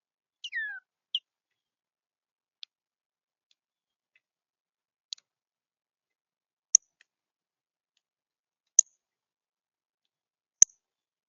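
A songbird at the feeder gives a short high call that slides downward, then a brief note just after. Sharp single clicks follow every two seconds or so, the loudest three in the second half.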